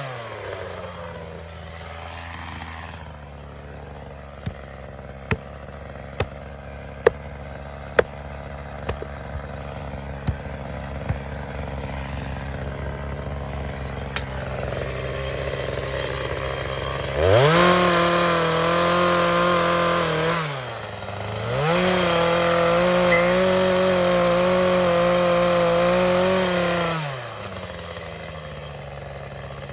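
Two-stroke chainsaw idling, with a run of sharp knocks a few seconds in, then revved up to full speed twice, about three and five seconds each, dropping back to idle between and after.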